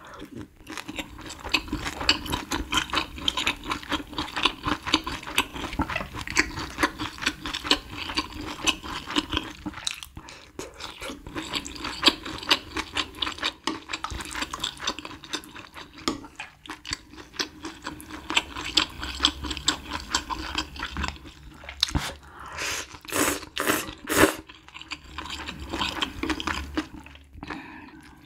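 Close-miked chewing of noodles and coriander kimchi, with quick wet crunches. About 22 seconds in comes a run of several short, louder slurps of noodles.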